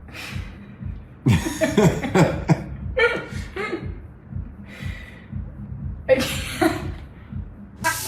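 Several short, rough vocal bursts in a row with pauses between, some of them pitched.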